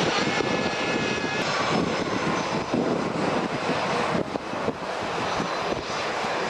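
Airliner engines running with a loud, steady rush of noise. A thin high whine comes in briefly about a second in.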